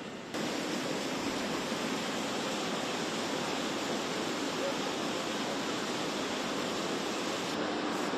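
Steady rushing noise that cuts in abruptly a moment in and changes abruptly again near the end.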